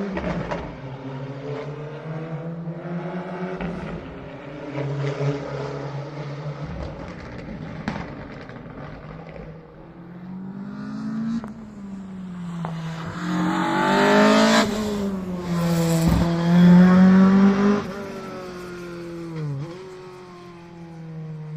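A historic rally car's engine revving hard through the gears on a closed stage, its pitch repeatedly climbing and dropping at each shift. It grows loudest as the car passes about two-thirds of the way in, with a brief blip and a drop in pitch near the end as it lifts off and changes down.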